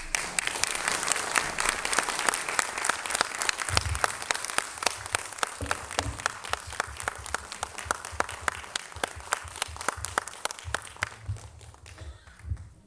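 A congregation applauding, dense at first, thinning out and dying away near the end.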